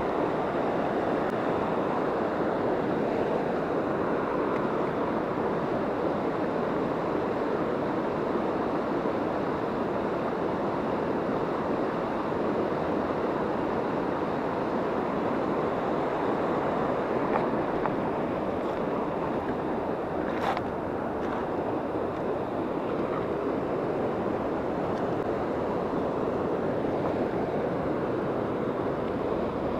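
Steady rush of a fast mountain river, with one sharp click about two-thirds of the way through.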